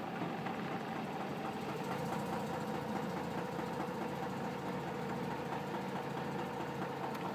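Mazda RX-8's Renesis rotary engine idling with the automatic gearbox in Drive, with a faint repeated knocking over the steady running. The knock appears whenever the car is put into gear.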